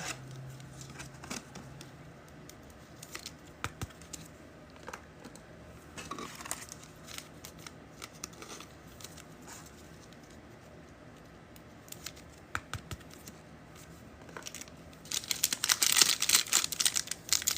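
Trading cards handled with faint scattered clicks and rustles, then, about fifteen seconds in, loud crinkling and tearing as a foil card pack wrapper is ripped open.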